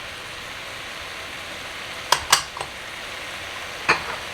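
Diced chicken sizzling steadily in a pot over medium heat, with a metal utensil clinking sharply against the pot three times in quick succession about two seconds in and once more near the end.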